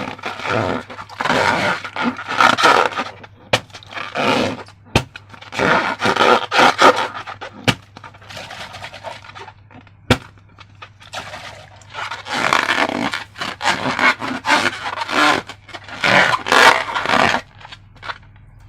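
Slime being handled, with repeated scraping and squishing strokes, each a second or two long, and a few sharp clicks in between.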